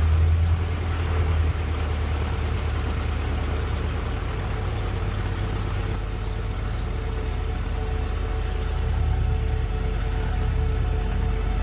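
Cessna light aircraft's piston engine running steadily at low power, an even drone with no change in speed.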